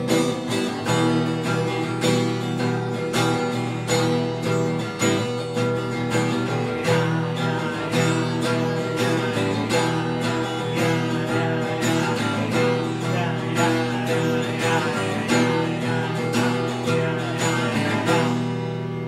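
Instrumental music of a strummed acoustic guitar with chords struck at a steady pace; the last chord is left ringing and fading near the end.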